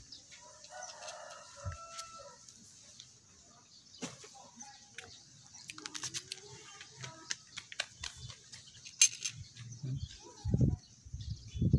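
A distant bird call, lasting about a second and a half and starting about a second in, over a steady high hiss, with scattered clicks and low bumps that grow louder near the end.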